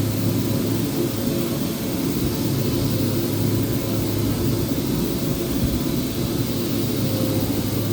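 Electric power sander running steadily while sanding a surface: a constant drone with a low hum beneath it.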